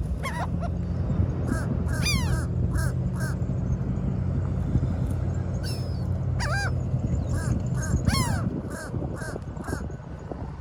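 Seagulls calling over and over in short cawing calls, with a few longer sweeping cries, over a low steady rumble that fades out about eight seconds in.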